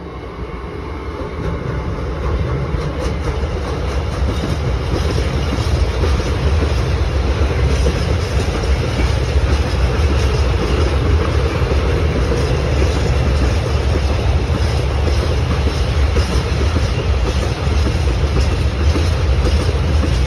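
Freight train of tank wagons, hauled by two electric locomotives, passing close by. The sound swells over the first few seconds as the locomotives come past, then settles into a steady, loud rumble of wagon wheels on the rails.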